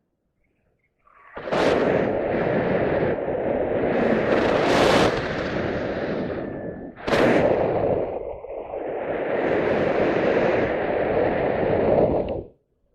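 Wind buffeting the microphone in loud, gusting rushes. It starts about a second in, dips briefly about halfway through and cuts off just before the end.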